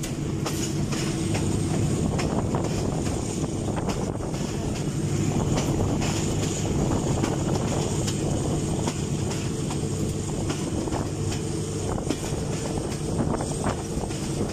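Steady rumble and rattle of a moving passenger train, heard from on board, with a continuous low drone and faint clicks from the wheels on the rails.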